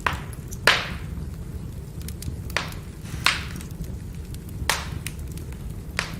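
Firewood burning: a steady low rumble of flames with small crackles throughout and about six sharp pops. The loudest pop comes just under a second in.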